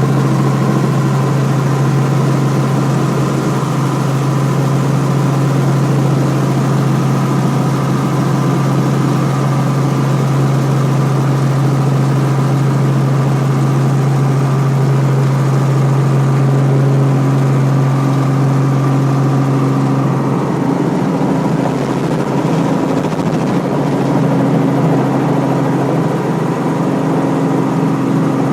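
Robinson R44 helicopter in flight, its piston engine and rotors making a loud, steady drone with a strong low hum. About twenty seconds in, the hum turns rougher and a higher tone joins it, as power or rotor load changes.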